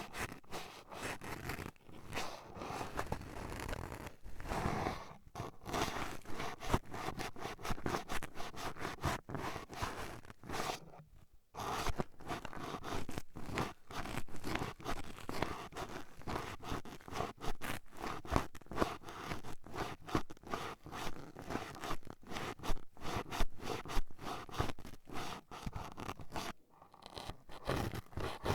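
Toothpicks rapidly poking and scraping in a microphone's ear, a dense run of scratchy, crunchy strokes broken by brief pauses about five, eleven and twenty-seven seconds in.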